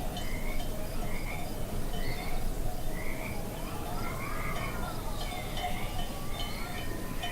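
Outdoor nature ambience: a low steady rush of wind or background noise, with an animal repeating a short call about once a second and a longer call that rises and falls near the middle.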